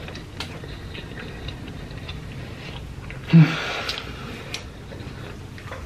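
A person chewing a mouthful of slider burger, with many small wet clicks from the mouth. About three seconds in comes a short "mm" hum, then a breath.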